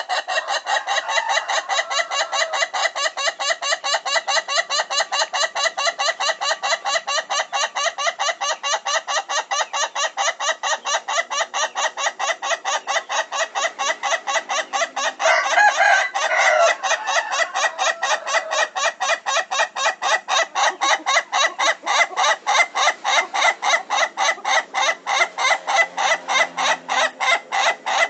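Ayam Ketawa (laughing chicken) roosters crowing in a long run of quick staccato notes, about four or five a second, like a human laugh. About halfway through, a louder, smoother call breaks in.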